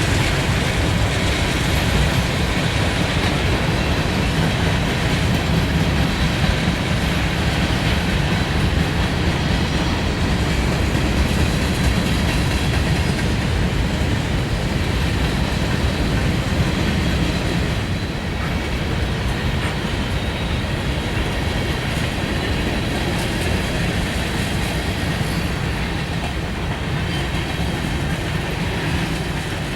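Freight train cars rolling past steadily, a continuous rumble of steel wheels on the rails.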